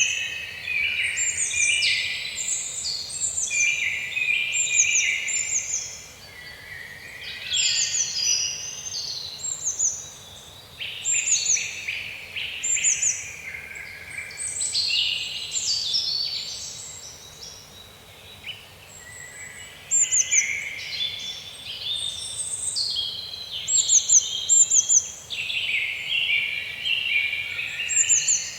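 Songbirds chirping and singing in a dense chorus of short, high, falling notes, swelling and easing every few seconds.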